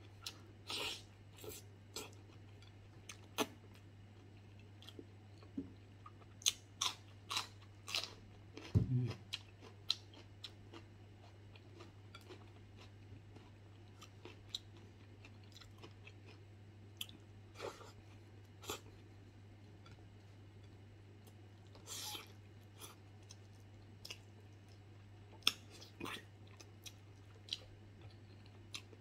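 Close mouth sounds of a person chewing soft, slow-cooked beef foot skin and tendon, with irregular wet smacks and clicks. A steady low hum runs underneath, and there is a single low thump about nine seconds in.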